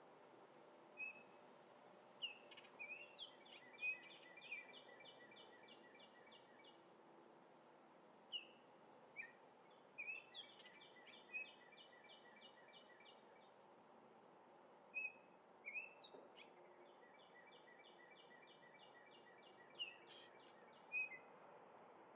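Oriole song, faint: three bouts, each opening with a few clear whistled notes and running into a quick series of evenly repeated notes lasting several seconds.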